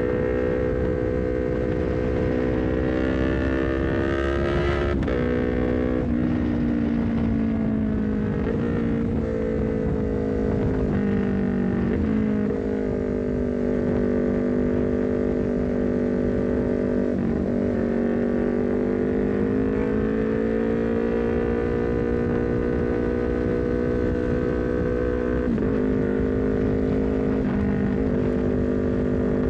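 Honda CBR250RR parallel-twin engine through a Leovince GP Corsa carbon silencer, riding under way: the engine note climbs steadily and drops sharply at each quickshifted gear change, about six times, over steady wind rumble on the camera.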